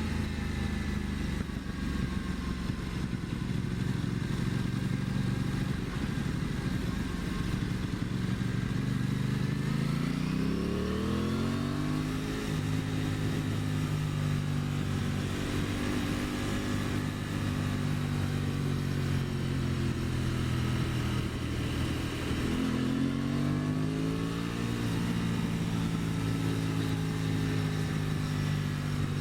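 Aprilia Tuono 660's parallel-twin engine running under way. Its pitch climbs as the bike accelerates about ten seconds in, then dips briefly and climbs again near the end.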